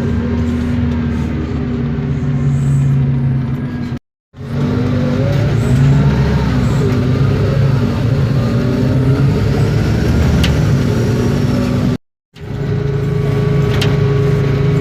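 Isobus City 1200 city bus under way, heard on board: its MAN D0836 LOH six-cylinder diesel running with the whine of the ZF Ecomat automatic gearbox and the differential, the pitch rising and falling with speed. The sound cuts out completely twice, briefly, and a few light rattles come near the end.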